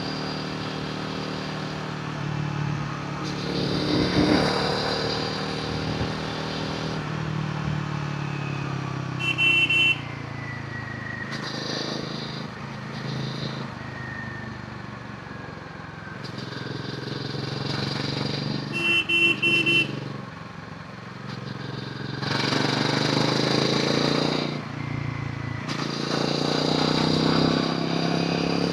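Royal Enfield Himalayan 450's single-cylinder engine and exhaust under way, the revs rising and falling as the rider accelerates, shifts and eases off. A vehicle horn honks briefly twice, about ten and nineteen seconds in.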